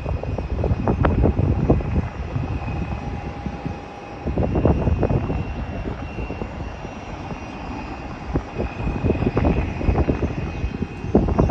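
Airliner engine noise with a faint steady whine, under heavy, gusty wind buffeting the phone's microphone.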